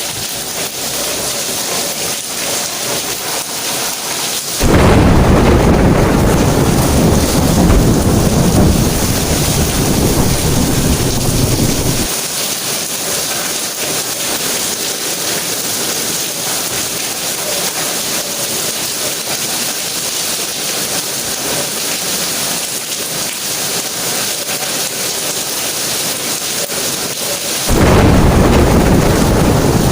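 Steady rain falling, with two long rolls of thunder. The first starts suddenly about five seconds in and rumbles for about seven seconds; the second starts near the end.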